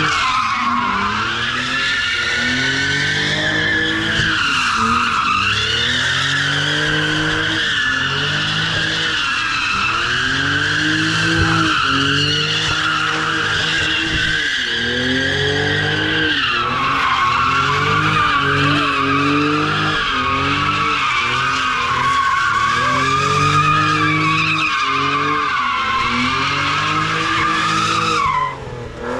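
A car's engine revving up and down about every two seconds while its tyres squeal without a break: a car sliding through donuts. Near the end the squeal and the revving drop away.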